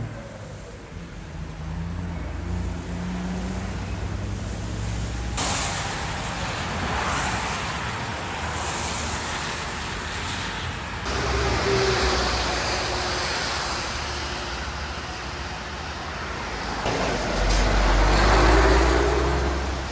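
Highway traffic on a rain-wet road: vehicles driving past with tyre hiss and engine rumble. The hiss grows abruptly about five seconds in, and the loudest vehicle passes near the end.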